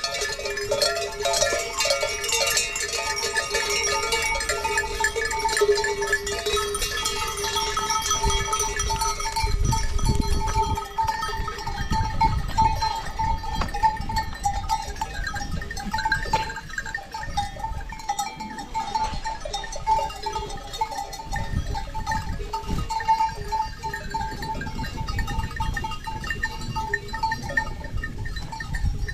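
Livestock bells ringing and clinking steadily, with occasional low rumbles underneath.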